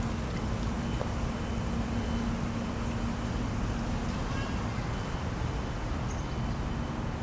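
Steady rumble of city traffic, with a low hum through most of it that fades out about five seconds in.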